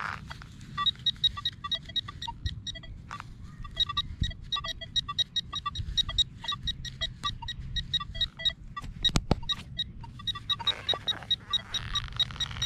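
Nokta Makro Legend metal detector sounding a run of short beeps, several a second, jumping between a few different pitches as the coil is swept over targets. A single sharp click comes about nine seconds in.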